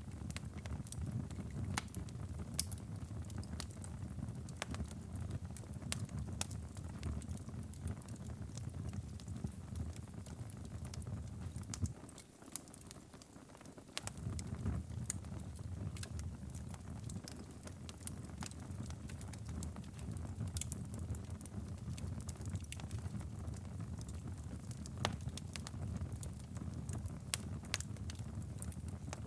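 Wood fire in a fireplace crackling and popping, with sharp irregular pops over a steady low rumble. The rumble drops out for a couple of seconds about halfway through.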